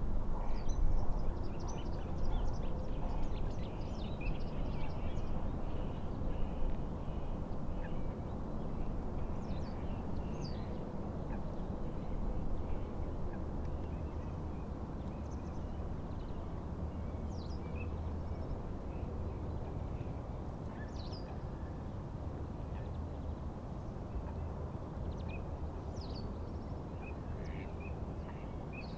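Low rushing rumble of wind and lapping water at a lake, loudest in the first few seconds and easing off, with birds giving short scattered chirps and calls throughout.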